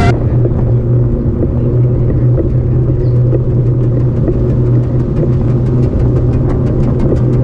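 Steady low rumble of road and traffic noise during a bike ride. About three seconds in, a rapid, even ticking begins and grows stronger.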